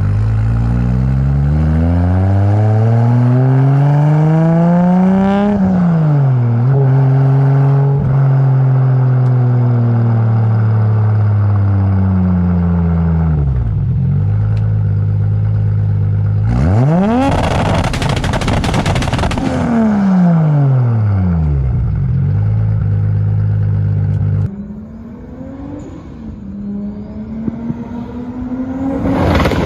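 Modified Toyota Supra MK4's turbocharged straight-six accelerating hard, its pitch rising and then dropping at a gear change about five seconds in, then holding a steady drone. Around the middle the car passes by loud and rough, its pitch falling as it goes away. Near the end the sound cuts suddenly to a quieter engine revving up.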